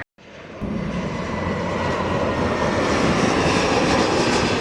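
Aircraft engine noise from a plane passing close by, starting just after a brief cut and swelling to its loudest about four seconds in.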